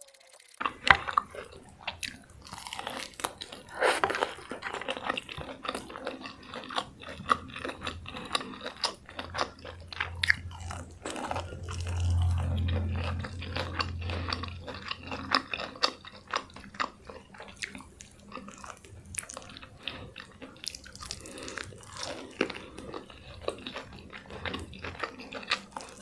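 Close-miked chewing of crunchy food, here crispy fried chicken and raw salad greens, with many sharp crisp crunches and bites throughout. A low hum sits under the chewing for a few seconds near the middle.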